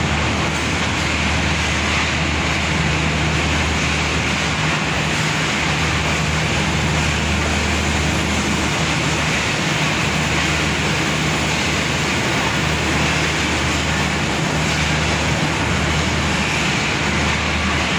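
Express passenger train rolling out slowly alongside the platform: a steady rumble and hiss of coaches under a big station roof, with a low steady hum underneath.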